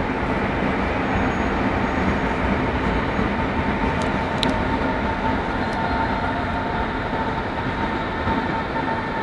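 A train pulling into a station platform: a steady rumble with a thin, steady whine running through it.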